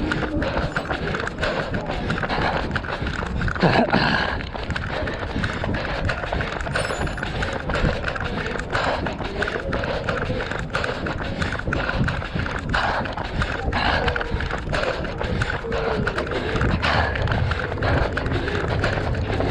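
A runner's footfalls in a steady rhythm, about three a second, picked up by a body-worn GoPro, over a constant rumble of wind and handling noise.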